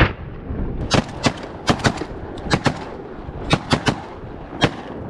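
A volley of shotgun fire from several hunters shooting at ducks: about a dozen sharp, irregular shots, some in quick doubles.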